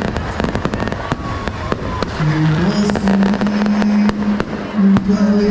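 Fireworks crackling in a rapid string of pops. A steady low tone joins about two seconds in, steps up in pitch and holds.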